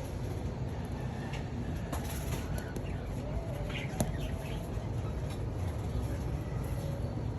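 Doves in an aviary: occasional wing flaps and faint short bird calls over a steady low rumble, with a sharp click about four seconds in.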